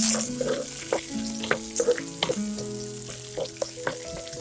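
Chopped onions and green chilies sizzling in hot oil in a nonstick frying pan. They are stirred with a wooden spatula that clicks and scrapes against the pan. The sizzle is loudest at the start, and soft background music with held notes runs underneath.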